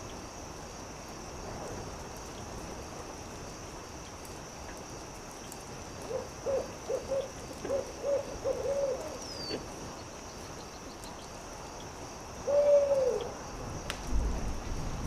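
Owl hooting: a quick run of about seven hoots, then a single longer hoot that drops in pitch at its end. Behind it is a steady high hiss, with a sharp crack near the end.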